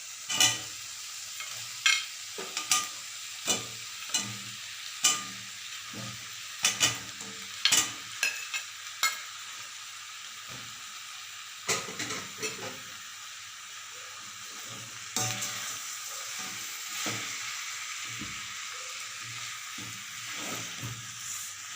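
Fried chicken pieces sizzling in masala in a frying pan while being stirred, the stirring utensil knocking and scraping against the pan with sharp clicks, most often in the first half.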